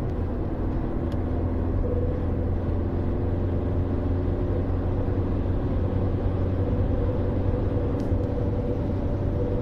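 Audi A3 8P TDI running with a steady low rumble and a constant humming whine on top: the strange noise the owner suspects comes from the gearbox.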